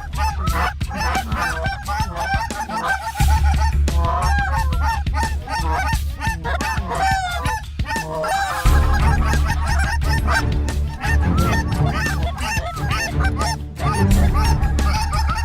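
Many geese honking together, a dense overlapping chorus of short calls, mixed with hunters blowing goose calls to work the flock in, over a low steady rumble.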